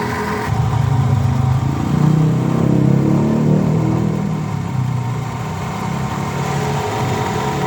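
Toyota Camry engine running with a low growling noise that swells about half a second in, is loudest a couple of seconds later, and eases off near the end. The growl comes from the water pump.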